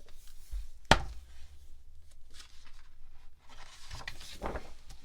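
Rustling and scraping handling sounds in a small room, with one sharp knock about a second in.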